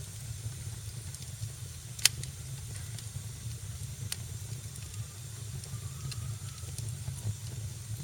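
Wood fire crackling in a fireplace: a steady low rumble of flames under a faint hiss, with scattered sharp pops. The loudest pop comes about two seconds in and another about four seconds in.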